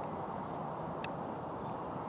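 Steady low rumble of distant road traffic, with one short high bird chirp about halfway through.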